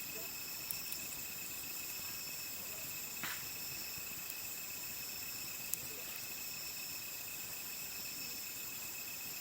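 Crickets trilling steadily at several high pitches, with a few faint sharp pops from the wood fire crackling.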